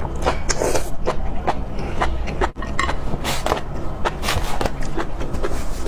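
A person eating close to the microphone: irregular wet chewing clicks and mouth smacks over a steady low hum, with a brief drop in sound about halfway through.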